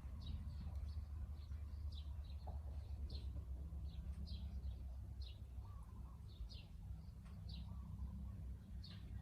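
Small birds chirping repeatedly, short falling chirps about once or twice a second, over a steady low rumble.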